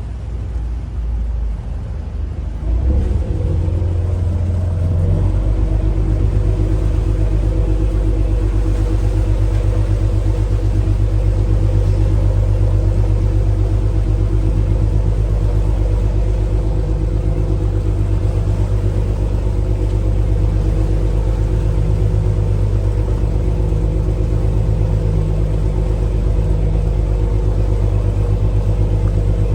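A ferry's diesel engine running steadily, heard on board as a deep, even drone. About three seconds in it speeds up and gets louder, then holds at cruising speed.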